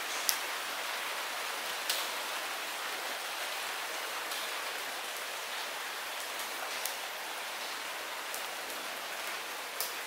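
Light rain falling steadily, an even hiss of many drops with occasional single louder drop taps.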